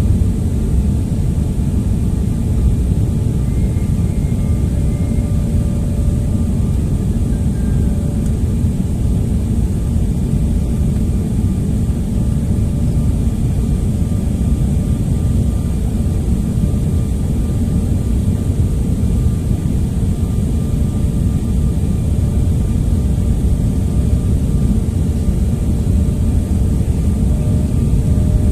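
Steady engine and airflow noise inside an airliner's cabin, a loud low rumble with a few faint steady tones above it.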